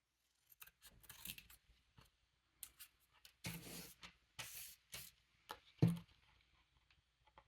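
Scissors cutting paper, with a series of short snips and rustles of paper being handled, and a dull thud about six seconds in.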